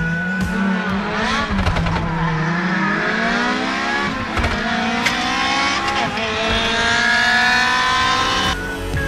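Racing car engine revving, climbing in pitch in several long pulls, then cutting off shortly before the end.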